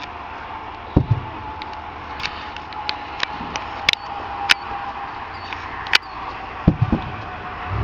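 Fireworks going off: a few low booms, two of them close together near the end, with scattered sharp cracks and crackles in between.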